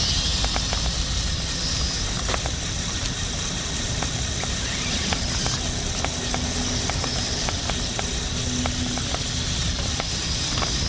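Small electric motors of a LEGO Technic remote-control car whining steadily as it drives, with scattered sharp clicks from its plastic parts.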